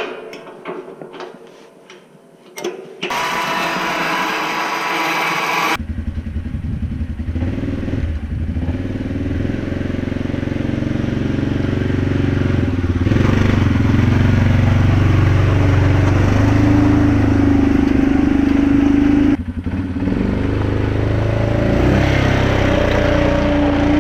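Faint clicks and knocks, then a few seconds of rushing noise. About six seconds in, a four-wheeler (ATV) engine starts up and runs steadily as the machine rides off, with a brief dip near the end.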